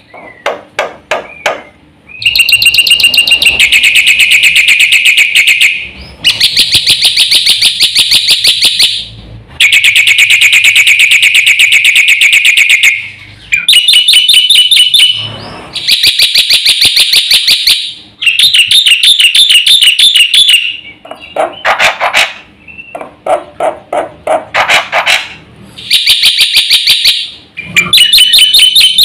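Black-winged myna (jalak putih) singing loudly and vigorously in long bouts of rapid, evenly repeated notes, each bout a few seconds long with short pauses between.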